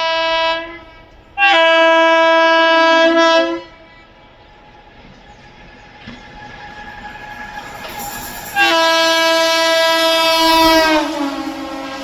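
Indian Railways train horn sounding three times: a short blast, then two longer blasts of about two seconds each. The last blast drops in pitch at its end as the train passes. Between the blasts, the running noise of the approaching train grows steadily louder.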